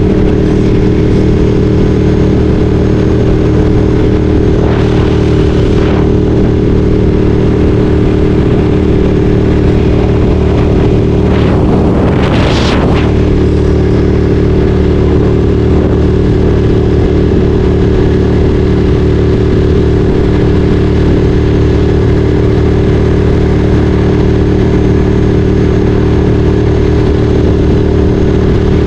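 Ducati Streetfighter 848's 849 cc L-twin engine running at a steady, unchanging note. A brief rushing whoosh rises and fades about twelve seconds in.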